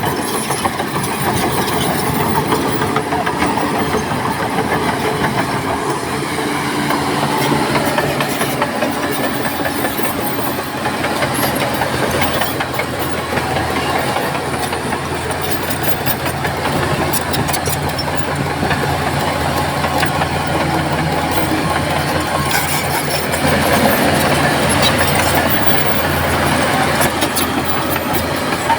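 Heavy diesel earthmoving machinery running steadily at work, with a light metallic clatter over the engine note.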